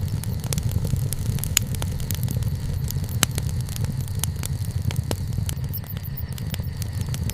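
Wood campfire burning: frequent sharp crackles and pops, irregular and several a second, over a steady low rumble.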